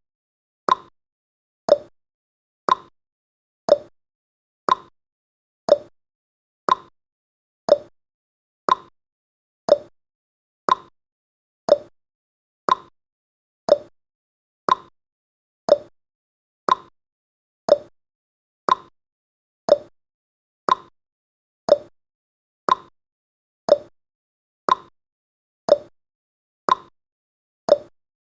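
Clock-like ticking sound effect of a countdown timer: one short, sharp tick every second, evenly spaced.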